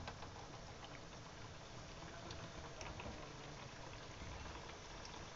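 Besan puris deep-frying in hot ghee in a kadhai: a faint, steady sizzle with scattered small crackles.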